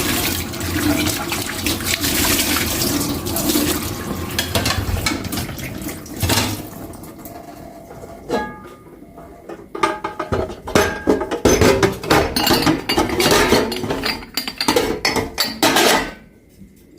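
Tap water running into a kitchen sink for the first five seconds or so. After it stops, dishes clink and knock against each other and the sink, a few of them ringing briefly.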